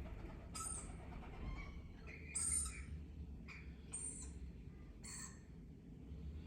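Pet parrots giving short, shrill chirps and squawks, roughly one call a second, the loudest about two and a half seconds in.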